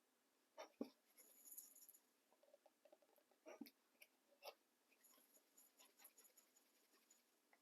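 Near silence with faint paper-crafting handling sounds: a few soft taps on the work surface and light paper rustling and scratching in between.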